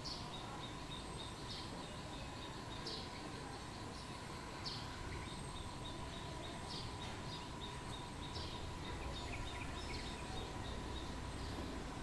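Small birds chirping, short high notes about once a second, over a faint rapid ticking and a steady low background rumble.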